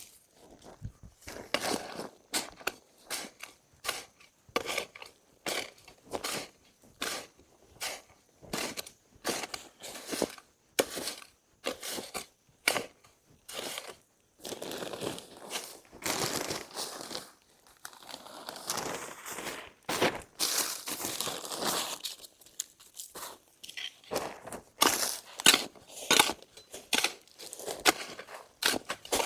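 Dry leaves and twigs crunching and crackling in uneven strokes about once a second, with longer rustling, crunching stretches midway and a few louder cracks near the end.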